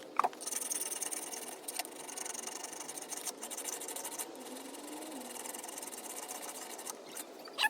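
Small handheld power tool running against the steel of an axe head during rust and pit removal, a steady high-pitched whir with brief dips.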